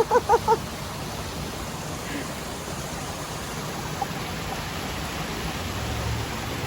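Steady rushing background noise with no break. At the very start a quick run of about five short, evenly spaced pitched notes ends about half a second in.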